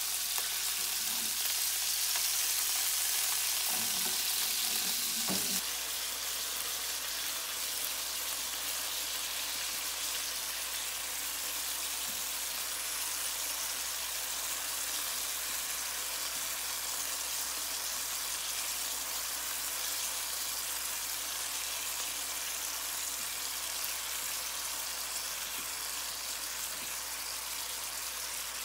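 Pork-wrapped green onion rolls frying in oil in a nonstick pan: a steady high sizzle that drops a little about five and a half seconds in, with a few soft knocks as the rolls are moved.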